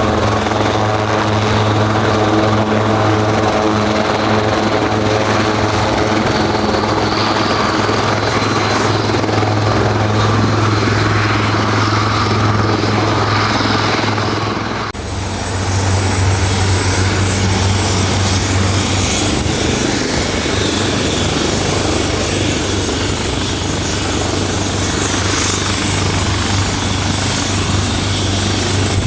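Helicopter running steadily, its rotor and engine making a constant low drone with a thin high whine over it. About halfway through the sound changes abruptly to a different steady drone and a higher whine.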